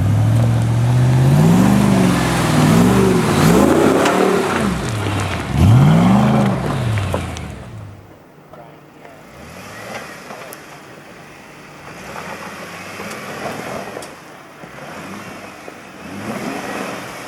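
The 2014 Ram Power Wagon's 6.4-litre HEMI V8 revving hard, its pitch climbing and falling several times over about seven seconds, as the truck works to climb the obstacle. About eight seconds in it cuts off, and a much quieter vehicle engine takes over.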